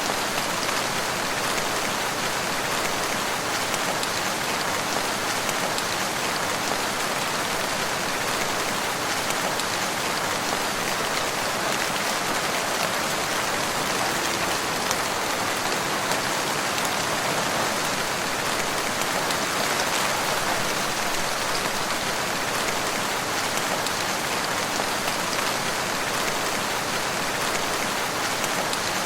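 Steady rain falling in a forest, an even continuous hiss of drops.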